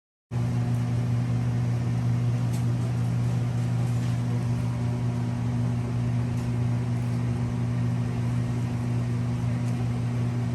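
Steady low machine hum with a few faint clicks over it; starts and cuts off abruptly.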